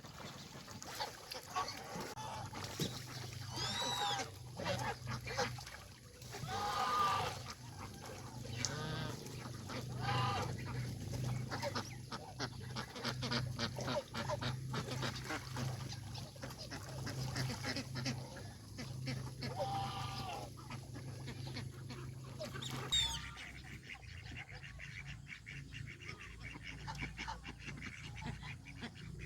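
Domestic geese honking, with repeated loud calls from the flock that die away for the last few seconds.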